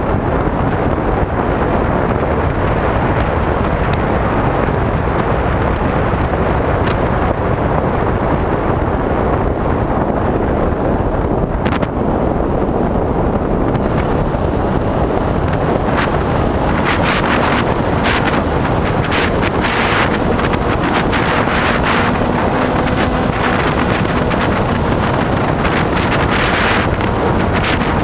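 Steady rush of wind buffeting a GoPro carried on an RC plane in flight, mixed with the plane's motor and propeller. A faint steady hum comes through in the second half.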